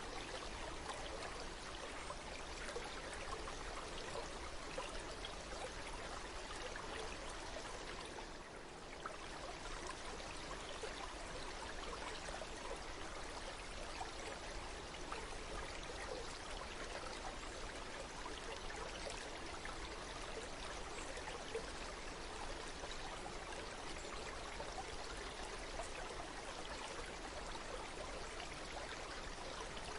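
Stream water running steadily, a continuous trickling rush, with a brief dip in level about eight seconds in.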